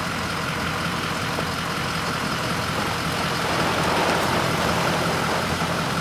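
Vehicle engine running steadily with road noise, heard from inside the vehicle, and a swell of rushing noise about four seconds in.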